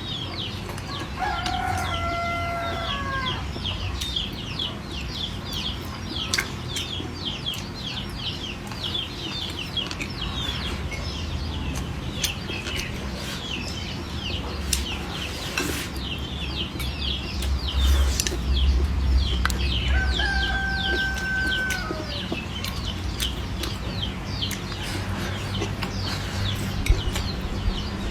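Farmyard chickens, with many short high chirps throughout and two longer held calls, one about a second in and one about twenty seconds in, over a steady low hum and occasional sharp clicks.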